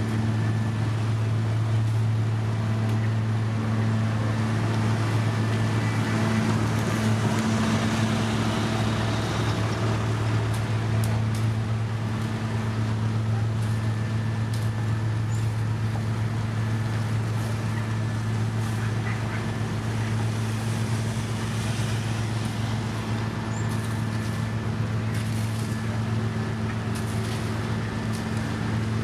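Diesel engine of heavy road-paving equipment running at a steady speed, a constant low drone with faint clicks and scrapes over it.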